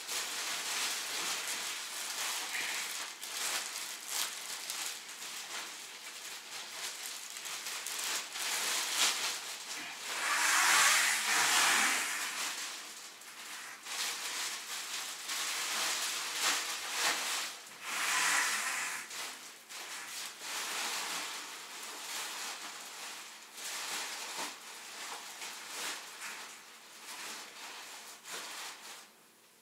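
Plastic shopping bags and packaging rustling and crinkling as groceries are handled and taken out, loudest in a long crinkle about ten seconds in and another near eighteen seconds.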